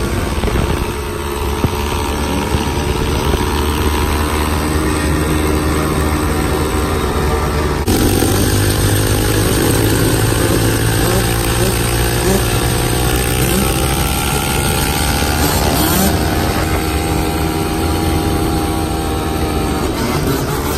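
Yamaha YZ125 two-stroke dirt bike engine running and revving, its pitch rising and falling. It gets louder about eight seconds in.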